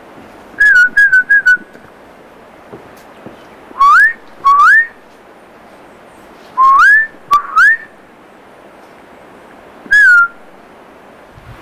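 Kea calling with loud, clear whistles: four short notes in quick succession about a second in, then two pairs of rising whistles, and one short falling note near the end.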